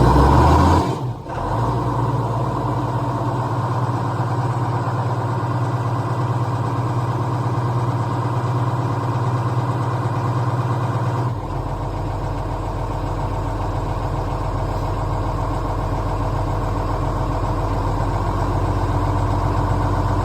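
Tractor engine on a cold start: a loud burst right at the start that breaks off about a second in, then the engine catches and runs steadily. About eleven seconds in its note drops to a lower, heavier sound and keeps running.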